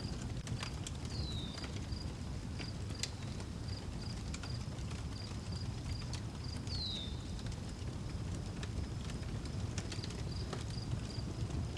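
Outdoor wood fire crackling, with sharp pops over a low steady roar. Crickets chirp at an even pulse throughout, and a bird gives a short downward-sliding whistle twice, about a second in and again near seven seconds.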